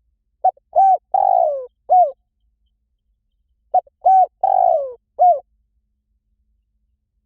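Spotted dove cooing: two identical phrases of four notes, each with a longer third note that falls in pitch, about three seconds apart.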